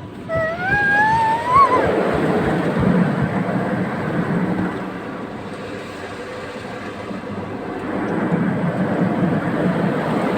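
Car wash running over a car: a rough, rushing noise of water and washing gear that swells, eases and swells again. Near the start a short rising tone climbs for about a second and a half.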